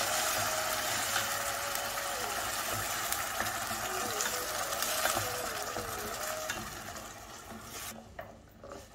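Onion paste sizzling in hot oil in a stainless steel pan as it is stirred with a wooden spatula; the sizzle fades and drops away about eight seconds in.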